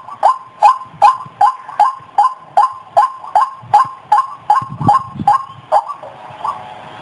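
White-breasted waterhen calling: a fast, even run of short, clipped notes, about two and a half a second, with a brief pause near the end.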